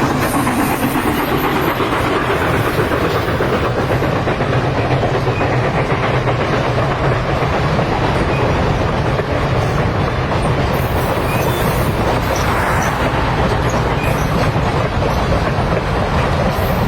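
A train running steadily on the rails, its wheels rumbling over the track without a break.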